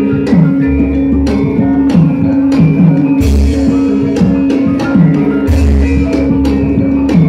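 Javanese gamelan ensemble playing wayang music: a held metallic tone under ringing metallophone strikes, drum strokes that slide down in pitch, and three deep booms.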